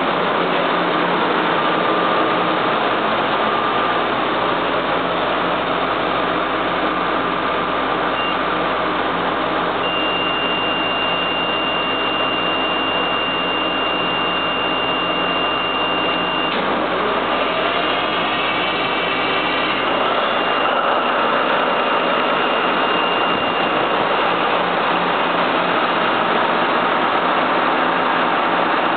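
Caterpillar marine diesel engine running steadily.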